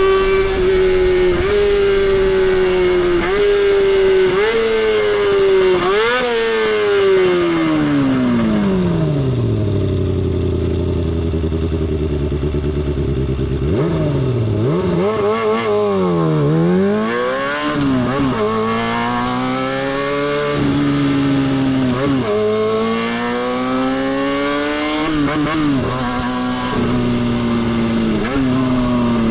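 Kawasaki Balius 250's inline-four engine heard from the rider's seat, revving high and climbing in short steps through the gears. It then winds down in one long falling note to a low steady idle about ten seconds in, revs up and down quickly a few times, and pulls up through the gears again.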